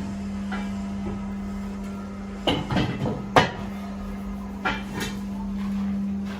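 Metal being struck: a few sharp clanks, a close pair about two and a half seconds in, one about three and a half seconds in, and two more near five seconds, over a steady low hum.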